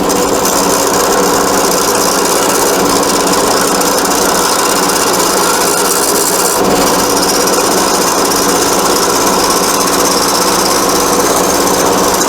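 Wood lathe running with a steady motor hum while a square carbide-tipped turning tool shaves a spinning wooden spindle. The scraping hiss of the cut sets in about half a second in. The tool takes off more wood at a time than a round-tipped tool.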